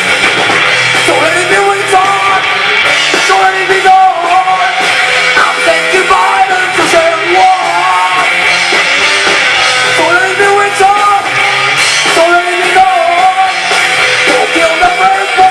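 A rock band playing live, with a singer over guitar and drums.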